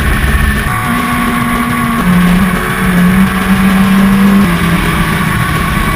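Superbike engines at high revs, racing; the engine note holds steady, then drops to a lower pitch about two seconds in.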